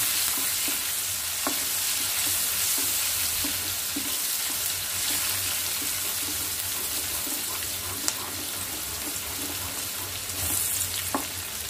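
Chopped garlic, ginger and green chillies sizzling in hot oil in a nonstick wok, stirred with a wooden spatula that scrapes and taps against the pan with many small ticks. The garlic and ginger are being fried until light brown.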